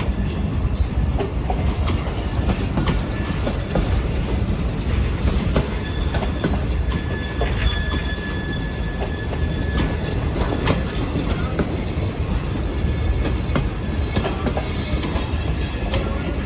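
Pakistan Railways passenger coaches rolling past the platform, wheels clacking over the rail joints under a steady rumble. A thin wheel squeal rises in the middle.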